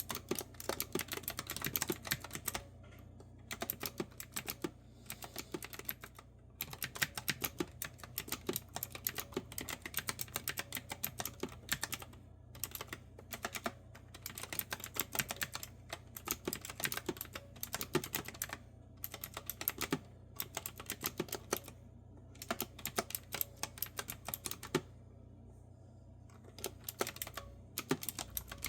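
Clicky retro-style keyboard with round keycaps being typed on in quick runs of keystrokes, with short pauses between runs and a longer pause near the end.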